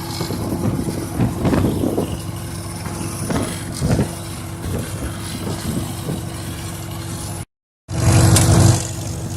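1951 Farmall H tractor's four-cylinder engine running steadily as the tractor drives along. Near the end the sound cuts out for about half a second, then comes back with a short louder burst of noise.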